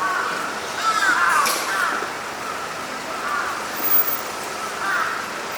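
Crows cawing several times over steady city street noise. There is a cluster of harsh caws about a second in and single calls near three seconds and near five seconds.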